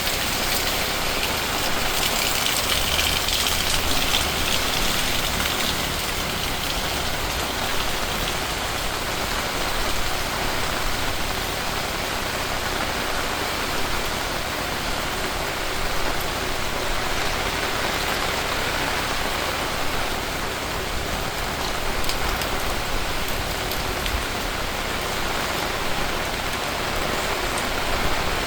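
Steady rain falling, an even patter of raindrops on surfaces.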